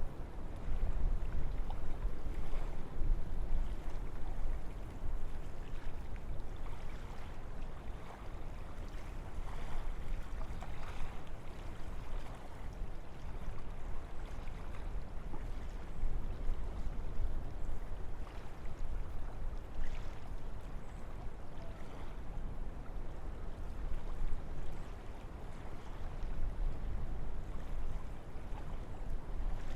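Wind blowing through a forest: a steady rushing with a deep low rumble, swelling and easing in gusts.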